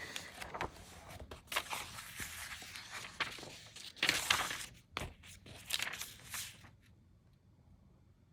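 Paper pages of a large hardcover book being turned and handled: a run of rustling swishes, loudest about four seconds in, dying away near the end.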